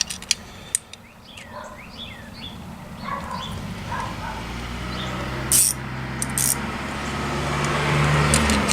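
Thin, high whining calls that rise and fall, like a dog whimpering, over the first few seconds. Then a low steady hum, as of a running engine or motor, builds steadily louder, with two sharp clinks a little past halfway.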